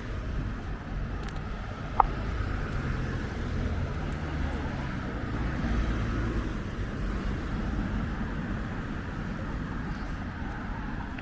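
Road traffic: a car passing on the street, its engine and tyres running, swelling slightly in the middle. One short sharp blip sounds about two seconds in.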